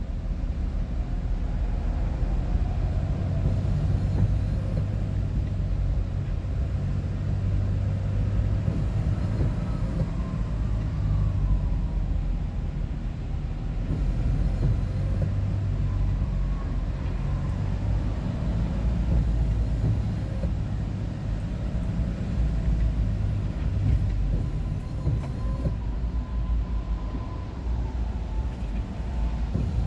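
Steady road and engine noise of a vehicle driving, heard from inside the cab: a constant low rumble with a faint whine that wavers slightly in pitch.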